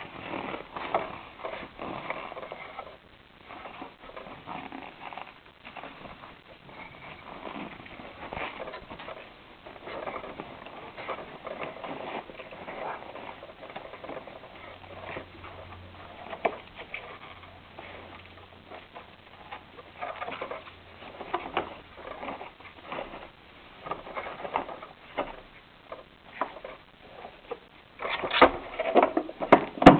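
Irregular rustling, plastic clicks and knocks from handling a bagged vacuum cleaner while its dust bag is being changed, with the motor off. There are a few louder knocks near the end.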